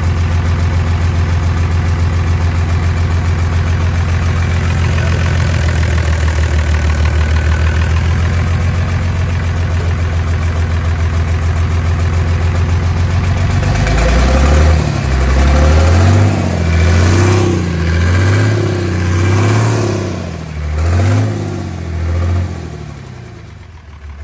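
Old Nissan ND6 six-cylinder diesel engine idling steadily, then revved in a run of about six quick throttle blips, each rising and falling, from about halfway through. The revs drop away and the sound fades near the end.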